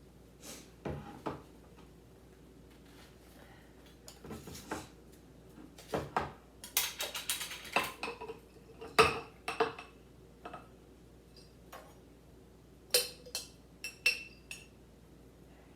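Glass pickle jars and their contents being handled: irregular clinks and knocks of glass, with a longer rattling stretch about seven seconds in, as pickles are moved from one jar into another.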